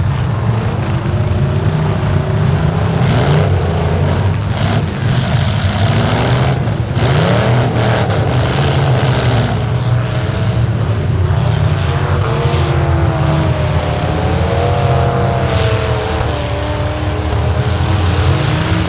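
Several truck engines running loudly and revving, their pitch rising and falling, with a few sharp bangs about four to seven seconds in and again near the end.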